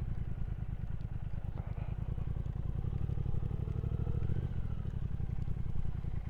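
Triumph Speed Twin 1200's parallel-twin engine running under way. About three seconds in the revs rise, and they ease off again a second or so later.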